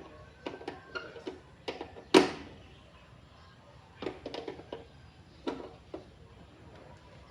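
Scattered knocks and clicks of objects being handled, with one loud knock that rings briefly about two seconds in.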